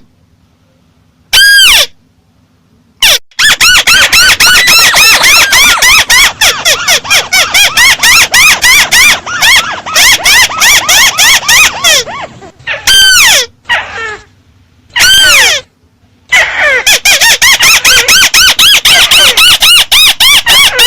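Calls of the mắt xéo bird, played loud at boosted volume: long rapid runs of high, arched chirps, several a second, broken by a few single longer sweeping calls.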